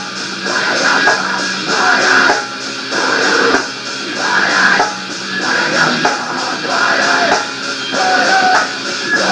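Rock music on distorted electric guitar, strummed in a repeating riff of about one swell a second, with no vocals.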